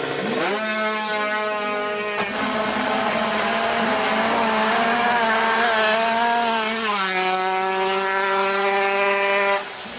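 Drag-racing motorcycle engine held at high revs with a buzzing note, its pitch rising about half a second in and stepping down about seven seconds in, then cutting off abruptly just before the end.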